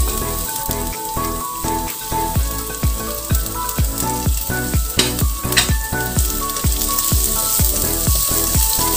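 Diced carrots and peas sizzling in a hot wok as they are tipped in from a plate and stirred with a spatula, with a couple of sharper clicks about five seconds in. Background music with a steady beat plays throughout.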